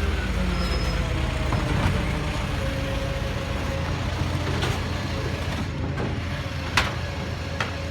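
Garbage truck's diesel engine running steadily, with a few short sharp knocks, the loudest about seven seconds in.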